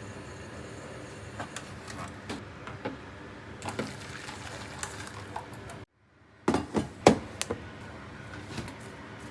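Kitchen handling sounds: scattered light clicks and knocks of utensils and dishes over a steady hum. About six seconds in, the sound drops out briefly, then a few louder knocks follow.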